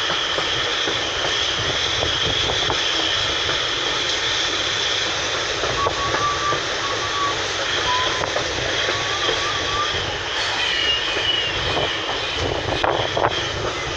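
Train running on the track, heard from on board a passenger coach: a steady rumble and rattle of wheels on rails. There are a few short high-pitched squeals about halfway through.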